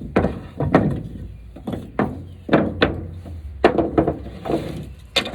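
Lumber being handled: about ten irregular wooden knocks and thunks as boards are set down and bumped together.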